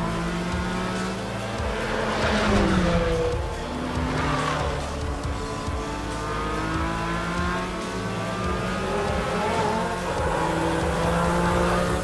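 Porsche 718 Cayman GT4 RS's naturally aspirated 4.0-litre flat-six revving hard on track, its pitch climbing through the gears as the car passes at speed, with music underneath.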